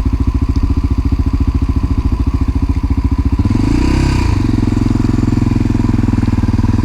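1988 Honda NX650 Dominator's single-cylinder four-stroke engine thudding at low revs, then revving up about halfway through and running on at a steadier, higher pitch as the bike pulls away.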